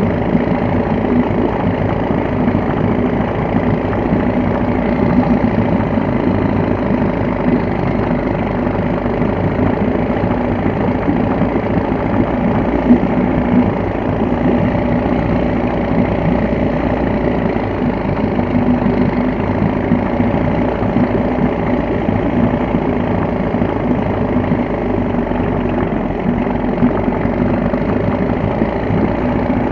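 Veterok-12 two-stroke outboard motor running steadily at idle on its first run after winter storage.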